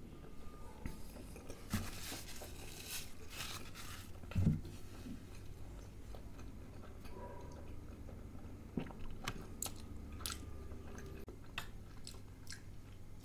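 Close-miked chewing of dal makhani and kulcha flatbread: a string of short mouth clicks and smacks, with one louder low thump about four and a half seconds in.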